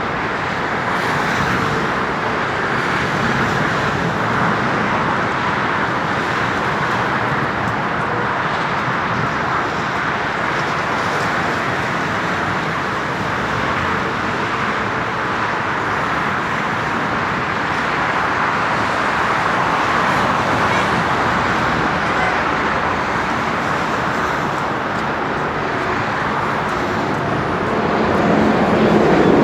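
Jet engine noise from a Lufthansa Cargo McDonnell Douglas MD-11F trijet: a loud, steady rushing roar without a clear whine, which swells near the end.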